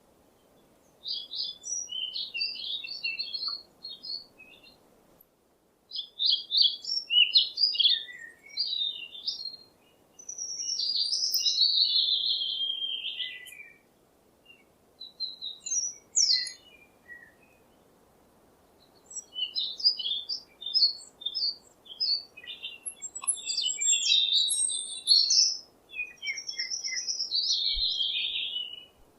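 Songbird singing: phrases of a few seconds made of quick high chirps and warbles, some sliding downward, with short pauses between phrases.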